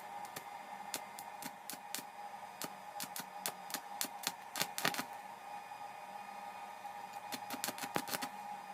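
Irregular light clicks and taps, some in quick clusters in the middle and near the end, over a steady hum.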